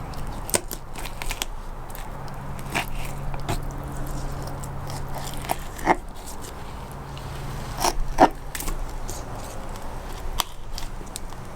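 Knife blade cutting and scraping through a trout's flesh and rib bones during filleting: scattered small crackles, clicks and scrapes, with a couple of louder crunching strokes about six and eight seconds in.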